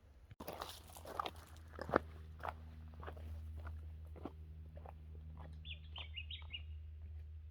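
Footsteps crunching on a forest track, irregular and about two a second. A bird gives a short run of high chirps about six seconds in.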